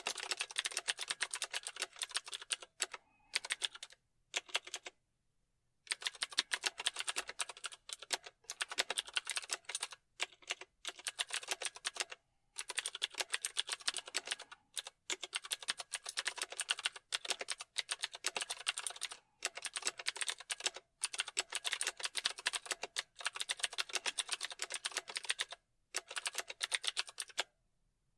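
Fast typing on a keyboard: runs of rapid key clicks broken by short pauses, the longest pause about five seconds in.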